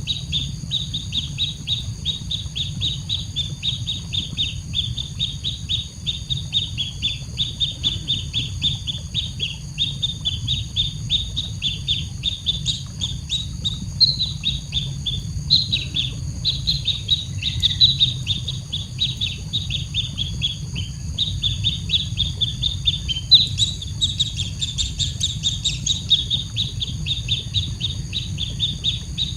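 Baby bird begging to be fed: an unbroken run of short, high, rapid chirps, several a second, over a steady low rumble.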